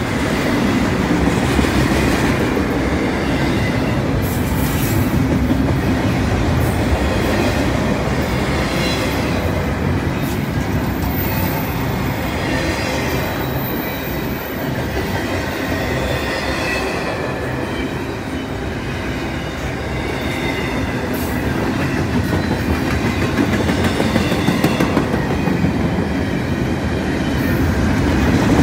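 Double-stack intermodal freight train's well cars rolling past: a steady loud rumble and rattle of wheels on the rail, with a faint wavering squeal from the wheels at times. It grows louder near the end.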